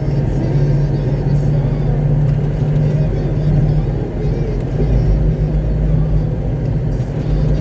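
Concrete mixer truck's diesel engine running steadily with road rumble, heard from inside the cab while driving; the low rumble deepens about five seconds in.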